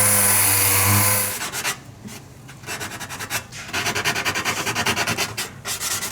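Sandpaper rubbed back and forth over a car body panel in quick, even strokes, starting about a second and a half in.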